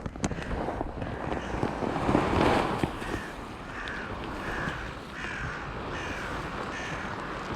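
A crow cawing in a regular series of short caws, a little over half a second apart, starting about three seconds in, after a brief louder rush of noise.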